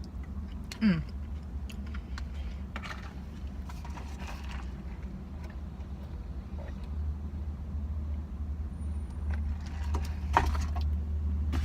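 Chewing food, with occasional soft clicks and crackles of mouth noise, over a steady low rumble that grows a little louder after about seven seconds.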